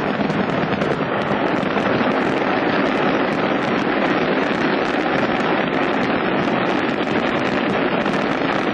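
Masses of fireworks going off without a break in the burning fireworks depot: a dense, steady crackling with no single standout blast.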